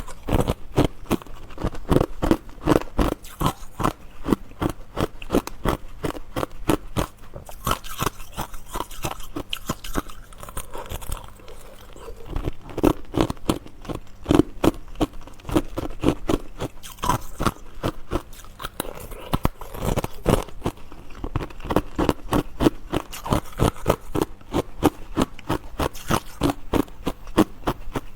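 Close-miked chewing of ice: crisp crunches, several a second, steady throughout.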